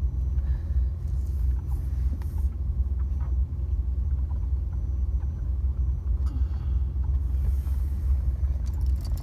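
Big truck's engine running with a steady low rumble, with a few faint clicks over it.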